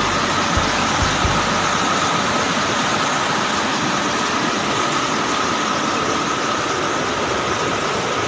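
Floodwater rushing in a steady, loud torrent, with a few low bumps in the first second and a half.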